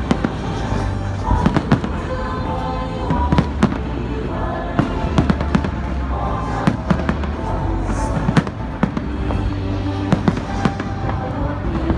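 Fireworks going off in a rapid, irregular string of sharp bangs and crackles, over loud music with a heavy, steady bass.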